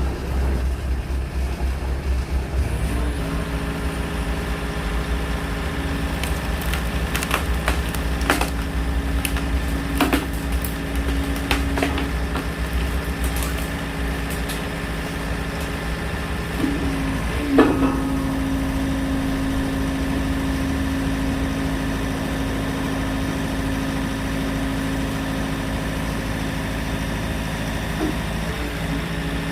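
The engine of the machine that drives a hydraulic log splitter runs steadily, and about three seconds in it settles into a steady hum under hydraulic load. Sharp cracks come between about 7 and 13 seconds, with a louder knock just before 18 seconds, as the splitter's cylinder drives through firewood.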